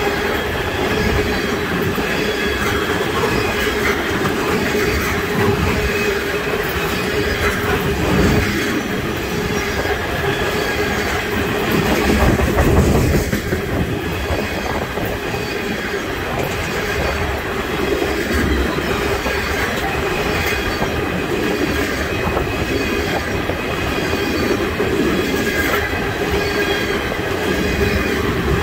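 Railroad tank cars of an oil train rolling past close by: a steady rumble of steel wheels on rail with regular clickety-clack over the rail joints and a steady high wheel squeal.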